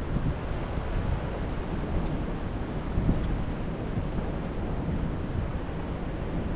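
Wind buffeting the microphone, a steady low rumble with a few gusts, about three seconds in the strongest.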